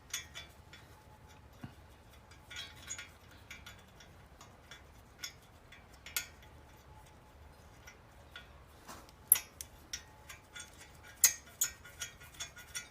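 Small metallic clicks and clinks, irregular and scattered, as exhaust nuts are started by hand onto the cylinder-head studs of a Harley-Davidson Twin Cam; the sharpest clicks come about nine and eleven seconds in.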